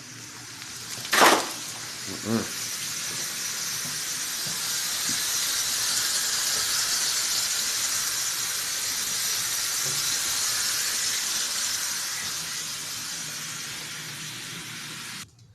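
Tap running steadily, filling a container with hot water, after a sharp knock about a second in; the flow stops suddenly near the end.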